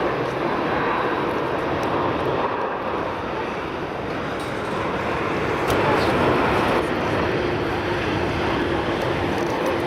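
Airliner engine noise: a steady rushing roar that swells slightly about six seconds in.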